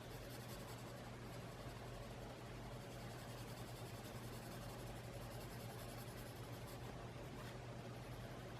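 Colored pencil scratching softly on sketch paper as blue is shaded in, over a steady low electrical hum.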